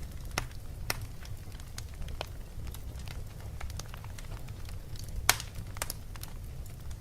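Wood fire burning in a fireplace: a low steady rumble of flames with irregular sharp pops and crackles, the loudest a little past five seconds in.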